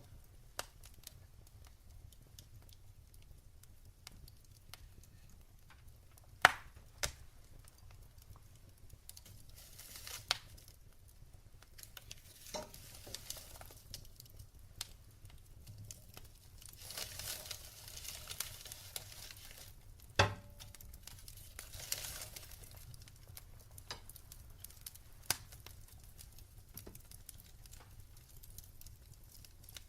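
Wood fire crackling in a fireplace: scattered sharp pops and snaps, the loudest about six seconds in and again near twenty seconds, over a soft hiss that swells for a few seconds in the middle.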